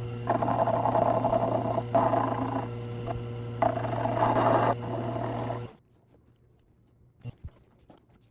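A power tool running on steel, with three stretches of louder scraping as it bears on the work; it stops about two thirds of the way through.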